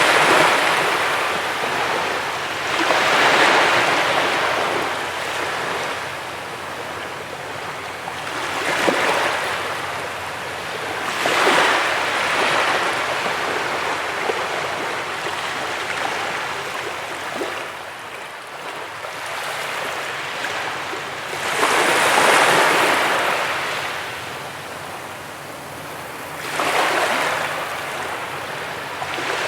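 Ocean waves breaking and washing up a beach, in about six swells of surf a few seconds apart, each rising and then fading back into a steady wash.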